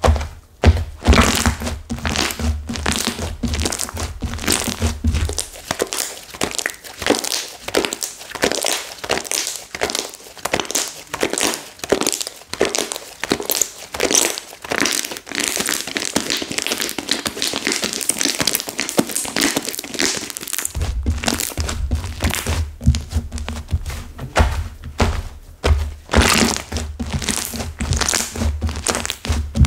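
Hands pressing and kneading a flora slime whose mixed-in clay has hardened stiff, giving rapid, irregular crackling and crinkling with dull thuds. The thuds drop out for a stretch in the middle and return near the end.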